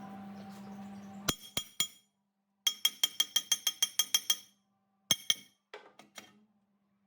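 Metal striking metal: sharp ringing clinks, first three, then a fast run of about a dozen, then a few more spaced out, over a faint steady hum.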